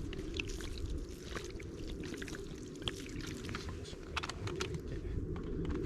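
Water being poured out of a container onto the ground to wet it down: a steady pour, with scattered small clicks.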